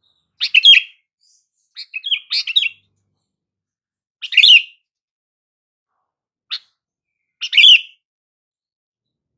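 Sooty-headed bulbul calling: four short phrases of quick chirping notes and one single brief note, spaced a second or two apart with silence between.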